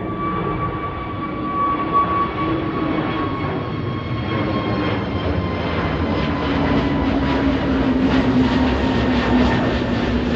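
Departing airliner's engines at takeoff power, a loud steady rumble with whining tones that slowly fall in pitch while the noise builds.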